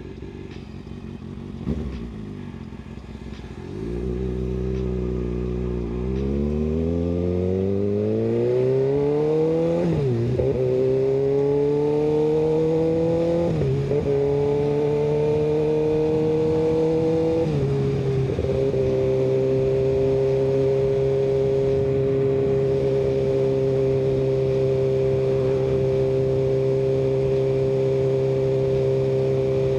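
Kawasaki ZX6R's 636 cc inline-four through an M4 aftermarket exhaust, running low with a single knock about two seconds in, then pulling away with rising revs. The pitch dips at three upshifts before the engine settles into a steady cruise for the last ten seconds or so.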